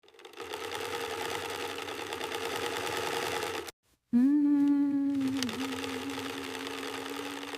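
Sewing machine stitching rapidly and steadily for about three and a half seconds. It stops abruptly, and after a short gap a steady, even hum holds to the end.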